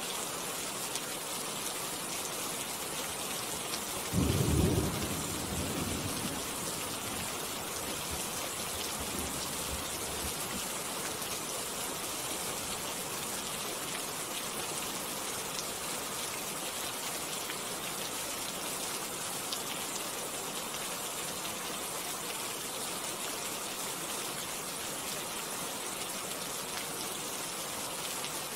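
Steady rain, with a low rumble of thunder starting about four seconds in and fading away over the next few seconds.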